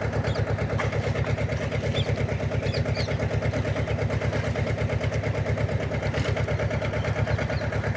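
Mahindra 24 HP mini tractor's diesel engine idling with a steady, even chug.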